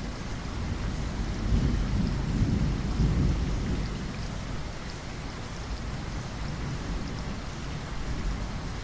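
Steady rainfall with a low roll of thunder that swells about one and a half seconds in and fades away by about four seconds.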